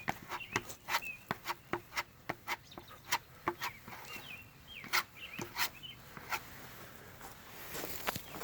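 Sharp, irregular clicks and taps, a few each second, from a putty knife working fibre-fill filler into holes in a fibreglass rudder, with short high bird chirps in between.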